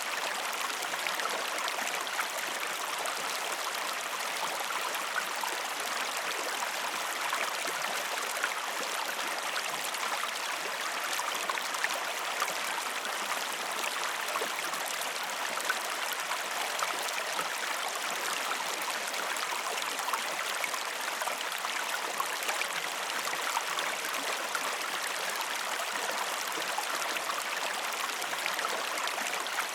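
River water flowing steadily over stones, a continuous rushing babble with small splashes and trickles scattered through it.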